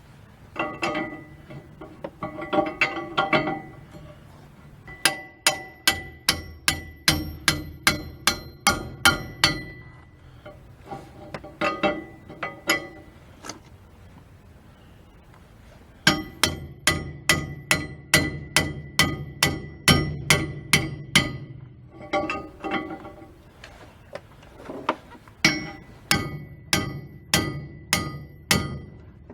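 Runs of hammer blows on metal, about two strikes a second, each with a bright metallic ring, broken by short pauses. They come from hammering on the boat's propeller shaft assembly while the greased, keyed fitting is being driven home and tightened.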